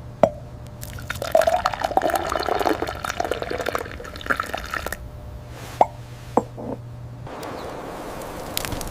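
Liquid dripping and plopping. A single drop comes first, then several seconds of dense bubbling pops, then two more distinct drops. A steady hiss comes in near the end.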